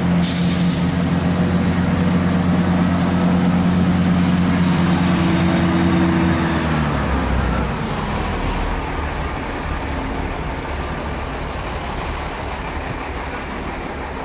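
Great Western Railway trains moving through the station: a loud steady hum with several pitches that drops away about seven seconds in, then rumbling running noise that gradually fades.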